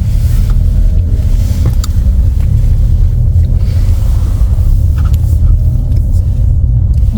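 Steady low rumble of a car driving along a road, road and engine noise heard from inside the cabin.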